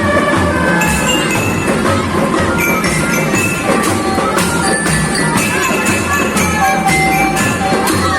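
Marching band playing: a melody of short, high notes over a steady beat of drums.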